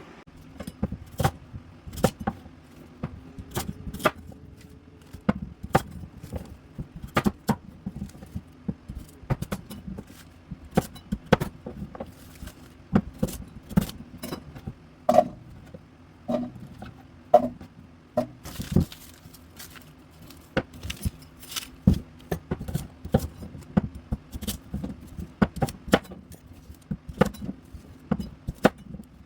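Kitchen knife chopping vegetables on a cutting board: sharp knocks a few a second, in uneven runs with short pauses.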